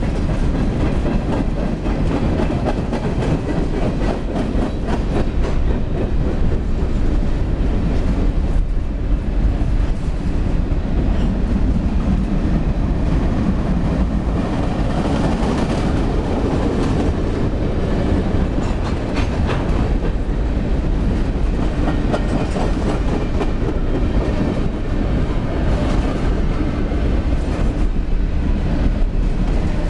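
Covered hopper cars of a freight train rolling past: a loud, steady rumble of steel wheels on rail, with frequent clicking as the wheels pass over rail joints.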